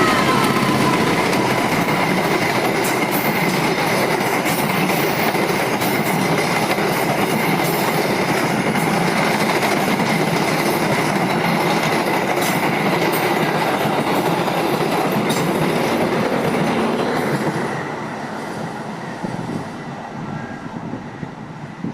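Argo Bromo Anggrek passenger train's carriages passing close by at speed: a loud, steady rumble of wheels on rail with occasional clacks and a thin, steady high whine. It dies away about 17 s in as the last carriage goes by.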